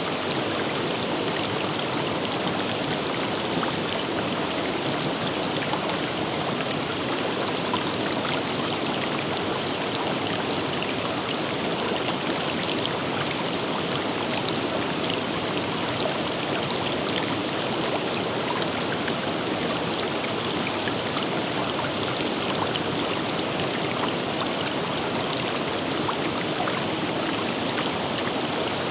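Forest river flowing: a steady rush of water over rocks, with small splashes and droplet ticks scattered through it.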